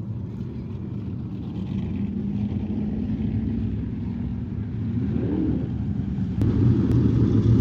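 Crate sprint car V8 engine running steadily at low revs, with a brief rise in pitch about five seconds in and a step up in loudness near the end.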